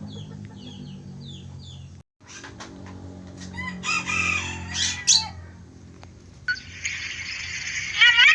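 Cockatoo vocalizing: small falling chirps, a brief break about two seconds in, a run of pitched, wavering calls, then a long harsh screech near the end, over a steady low hum.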